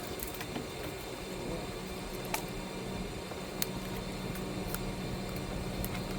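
Bucket truck's engine and boom hydraulics running with a steady low hum, with a few sharp clicks scattered through.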